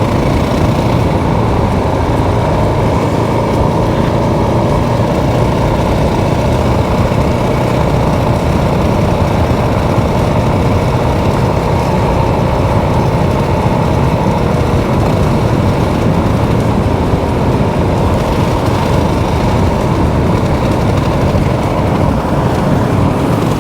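Motorcycle running steadily under way, its engine mixed with rushing riding noise on the helmet-side microphone.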